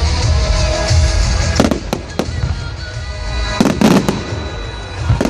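Fireworks exploding: several sharp bangs about one and a half, two and four seconds in, the longest and loudest near four seconds, over a continuous low rumble of bursts. Music plays throughout.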